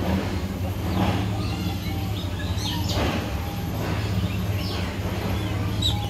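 Birds chirping with short, scattered calls, several of them sweeping down in pitch, over a steady low hum.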